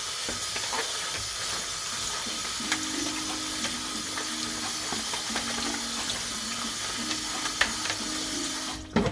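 Tap water running steadily into a sink while chicken is rinsed, with small knocks and an on-off low hum. The water cuts off suddenly near the end.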